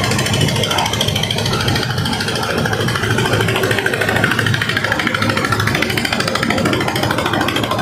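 A fishing boat's engine running steadily with a fast, even chugging pulse.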